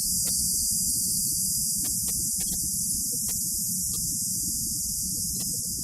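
A person breathing out a long, steady 'ssss' hiss through the teeth: the lung sound of the Taoist Six Healing Sounds practice. A few faint ticks sound over it.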